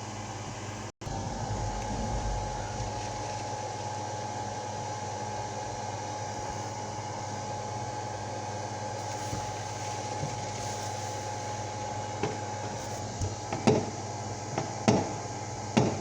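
Steady machine-like hum and hiss with a faint constant tone, like an air conditioner or fan running in a room. It cuts out for an instant about a second in, and a few short thumps come near the end.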